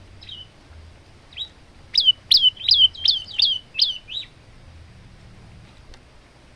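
Male prenjak lumut, a prinia, singing: two soft notes, then a fast run of about seven sharp, loud, down-slurred chips, a few a second.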